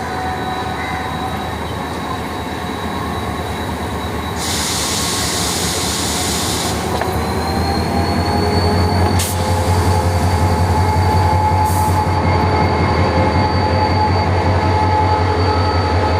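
Passenger train moving slowly through the station, with steady high-pitched wheel squeal over a low diesel drone that grows louder. A hiss lasting about two seconds comes about four seconds in, and a single sharp click about nine seconds in.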